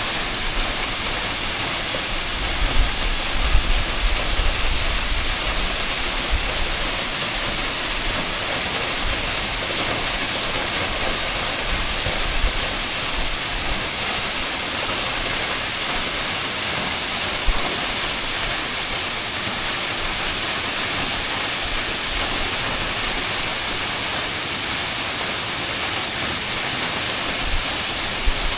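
Water falling from a waterfall about 20 m high: a steady, even rushing hiss, with a few low rumbles in the first seconds.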